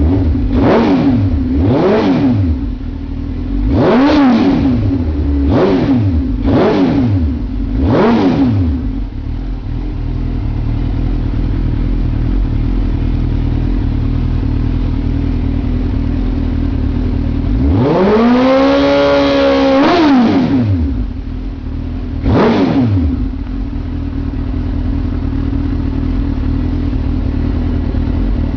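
2006 Suzuki GSX-R1000's inline-four engine through a Yoshimura aftermarket exhaust, idling and blipped: about six quick revs that rise and fall in the first eight seconds, a longer rev held for about two seconds midway, one more blip, then a steady idle.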